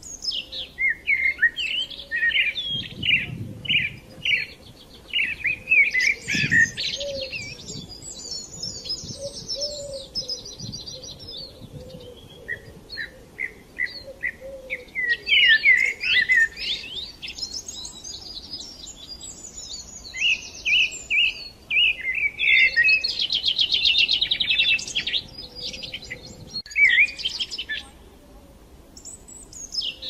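Songbirds chirping and singing, a mix of short repeated chirps and fast trills that come in bursts separated by brief pauses.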